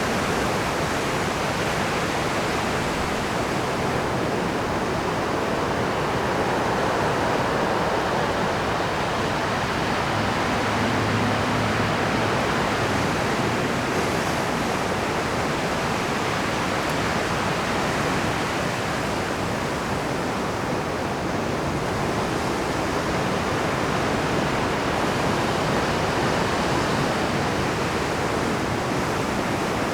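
Rough ocean surf breaking and churning against a rocky shore, a steady dense wash of water noise that swells and eases slowly.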